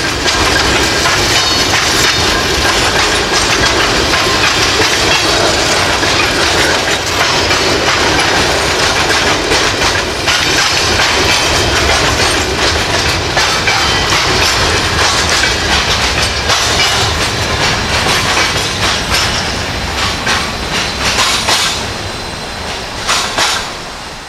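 Freight train's covered grain hopper cars rolling past, steel wheels clattering over rail joints in a dense, loud run of clicks. The clatter thins out and fades near the end as the last cars go by.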